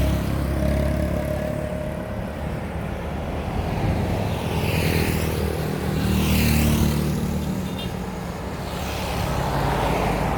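Road traffic: a steady low rumble of vehicle noise, with two vehicles passing close by about halfway through.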